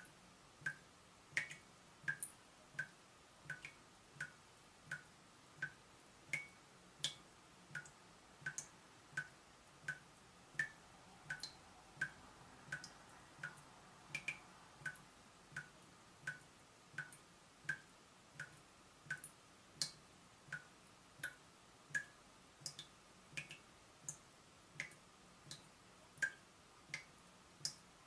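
Water dripping from a leaking tap at a steady pace, about three drips every two seconds, each drop a short plink.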